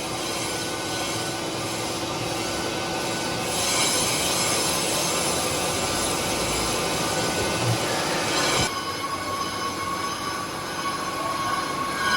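Loud factory machinery running with a steady metallic squeal and many high ringing tones. The sound brightens and grows harsher about three and a half seconds in, then changes suddenly to a lower, duller din a little before the end.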